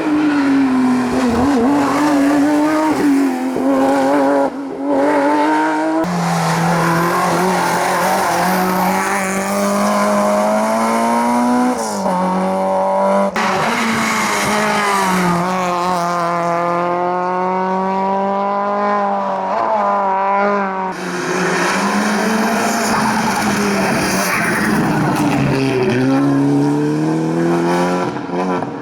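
Competition cars racing up a hillclimb at high revs, their engines rising and falling in pitch through gear changes; several different cars follow one another, each changing abruptly to the next.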